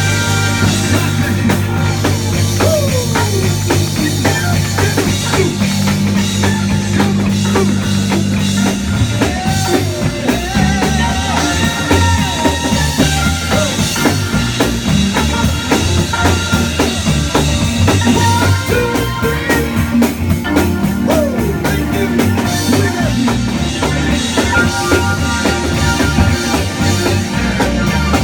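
Instrumental band music with drums, bass and guitar, playing steadily without singing.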